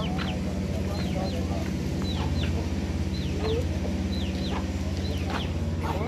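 A bird chirping: short high chirps, each falling in pitch, coming roughly in pairs about once a second, over a steady low hum.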